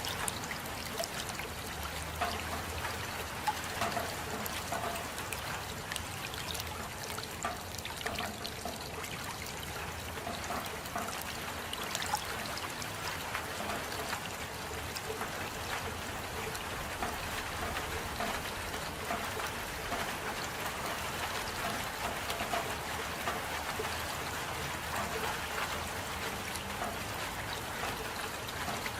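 Steady rain with water trickling and dripping, with many small drop taps over an even wash of noise.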